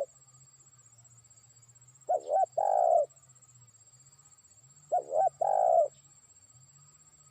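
Spotted dove (terkukur) cooing twice, each phrase two short quick notes followed by a longer note, about three seconds apart. A trained decoy bird calling out to distant rivals.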